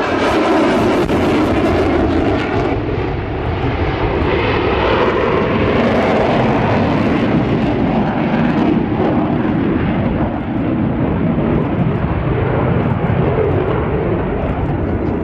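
Loud, continuous engine noise of an airplane flying past at an airshow display, its pitch slowly falling over the first few seconds.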